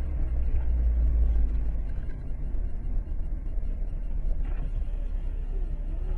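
Low, steady rumble of a car's engine and road noise heard from inside the cabin, heaviest in the first second or so and then easing slightly.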